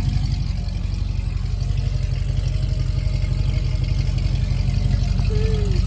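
Car engine fitted with aftermarket headers idling steadily, a low even rumble.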